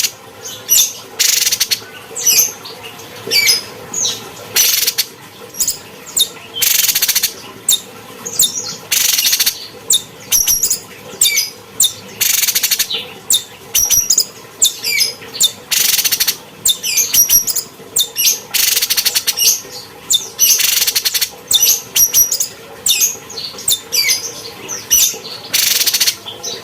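Cucak cungkok songbird singing: a continuous run of quick high chirps and short whistles, broken every second or two by a harsh, rasping call.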